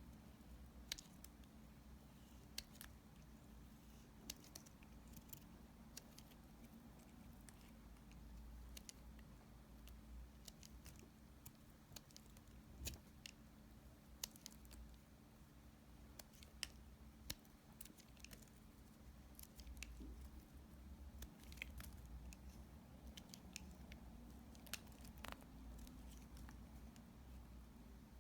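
A knife cutting small dry bar-soap remnants: soft, irregular crisp clicks and crunches as the blade bites through, over a faint low hum.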